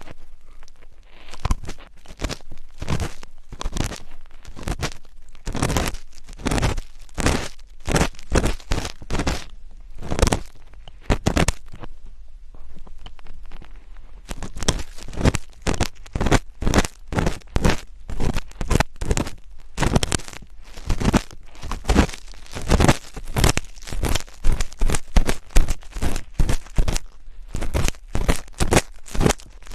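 Close-miked ASMR scratching: a rapid, irregular run of crackling scratches right on the microphone, thinning out briefly about halfway through before picking up again.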